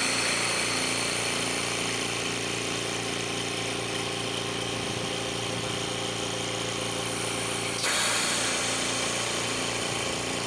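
Invacare Platinum 10 oxygen concentrator running with its newly replaced compressor: a steady hum, with a louder rush of air about eight seconds in.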